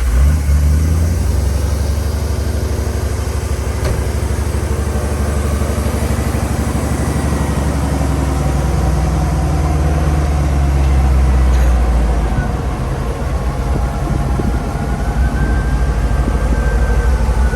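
Car engine catching just after starting, then idling steadily, with a slight dip in level about three quarters of the way through.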